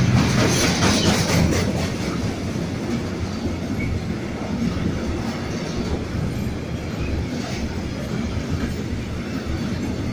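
Freight train of tank wagons rolling past: a steady rumble of steel wheels on the rails with clatter over the track, loudest in the first couple of seconds.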